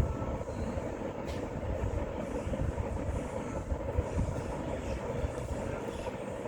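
Steady low rumbling noise with a faint click about a second in.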